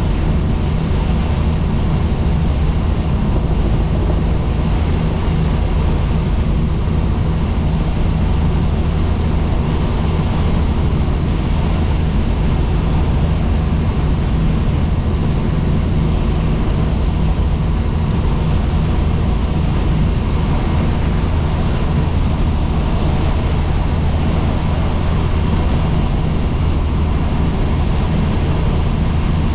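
Helicopter in flight, its rotor and turbine engine running steadily: a loud, unchanging low drone with a hum of even tones beneath a rushing noise.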